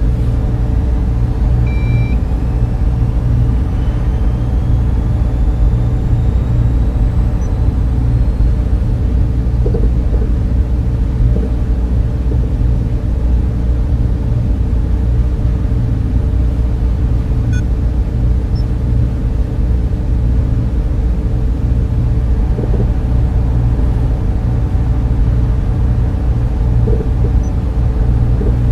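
Data center server room ambience: a loud, steady low hum of cooling fans and air handling, with a constant tone over it. A short electronic beep sounds about two seconds in.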